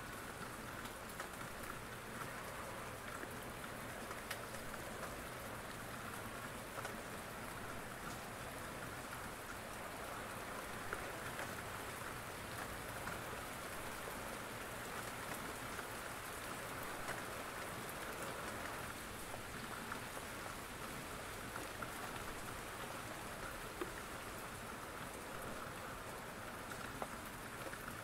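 Steady rain falling, with scattered sharp louder ticks of single drops.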